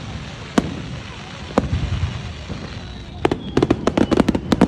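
Aerial fireworks bursting overhead: single bangs about a second in and again a second later, then a quick run of a dozen or so sharp cracks near the end, over the murmur of a crowd.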